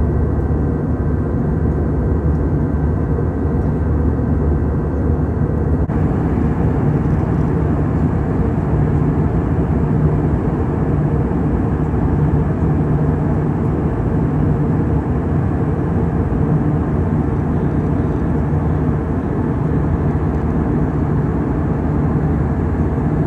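Steady rumble of an airliner's engines and airflow heard inside the passenger cabin in flight. A faint higher hum drops away about six seconds in.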